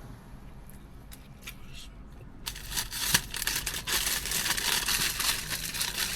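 Paper snack wrapper crinkling and crumpling, handled in quick rustles that start about two and a half seconds in.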